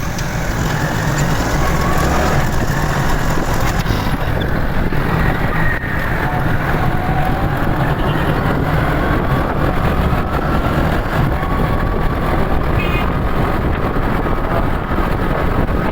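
Motorcycle on the move in traffic: steady engine and road noise with wind on the microphone, and an engine note that slowly rises and falls.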